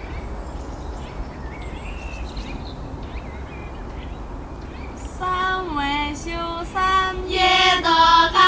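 Steady outdoor background noise with a few faint bird chirps, then about five seconds in a Dong girls' choir begins singing a Dong Grand Song in high, held and gliding notes that grow louder.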